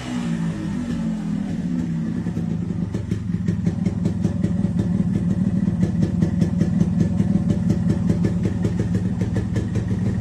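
Yamaha RX100's single-cylinder two-stroke engine idling through its exhaust after a blip of the throttle, a steady low note with a rapid, even crackle from the pipe.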